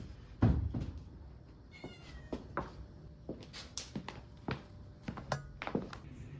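A cat meows once, briefly, about two seconds in, amid a loud thump near the start and a scatter of sharp clicks and taps.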